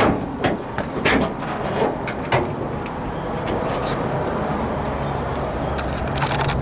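Metal clicks and clunks of the 1968 Ford F250's hood being unlatched and raised, about half a dozen in the first two and a half seconds, the first the loudest, over a steady low background hum.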